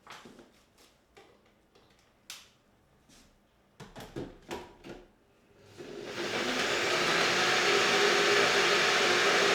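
Several clicks and knocks of handling, then about six seconds in a motor-driven household appliance starts, builds up over a second and runs loud and steady.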